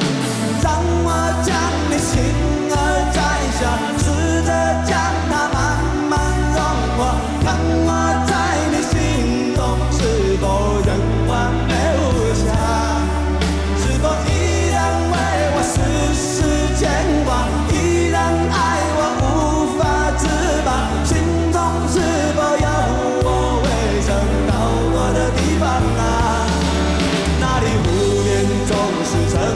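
Live rock band playing a slow ballad: steady bass and drums under a sung melody and electric guitar.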